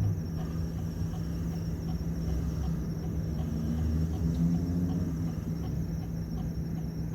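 Chevrolet Cruze 1.6 16V petrol engine and road noise heard from inside the moving car's cabin: a steady low drone, with the engine note rising slightly about four seconds in.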